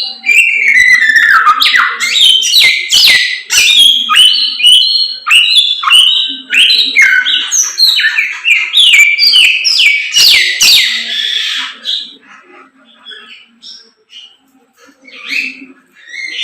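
A kept samyong songbird singing loudly and continuously, a fast, varied string of whistled notes, many sliding downward; the singing thins to a few scattered, fainter notes about three-quarters of the way through.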